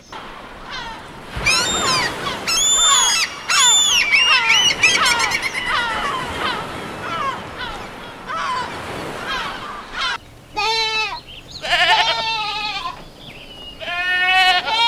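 A flock of gulls calling, many cries overlapping. About ten seconds in they give way to goats bleating, a few separate bleats.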